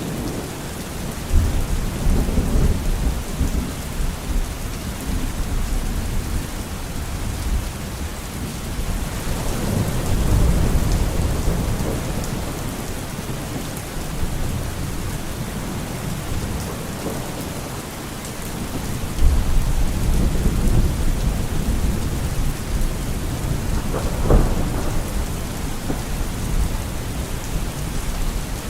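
Thunderstorm: steady rain on surfaces with rolling thunder that swells in low rumbles about a second in, around ten seconds in and again from about nineteen seconds, with a sharper thunderclap at about twenty-four seconds.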